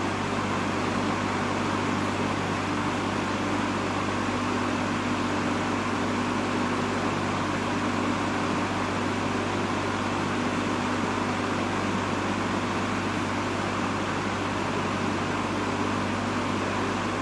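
1960s Superlectric 20-inch box fan running: a steady motor hum under an even rush of air from the blades.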